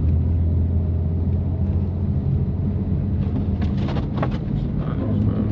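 2018 BMW M3 Competition's twin-turbo straight-six, with catless downpipes and an always-open valved exhaust, droning steadily at low, even revs along with tyre and road noise. A few short clicks come a little past the middle.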